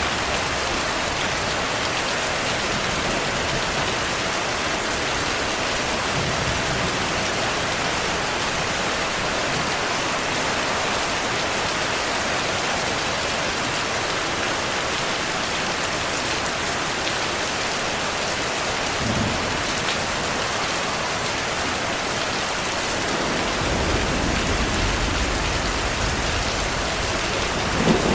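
Heavy rain falling steadily, an even hiss. Near the end a low rumble of thunder swells in, with a sharper clap of thunder right at the close.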